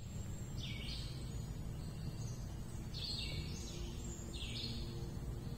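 A bird calling three or four times, short calls a second or two apart, over a steady low background rumble.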